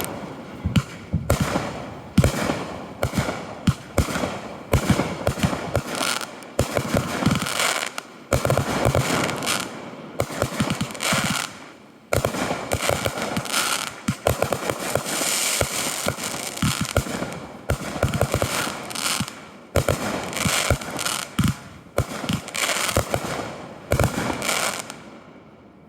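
Fireworks going off in a dense, continuous barrage: many rapid bangs over steady crackling, dying away about a second before the end.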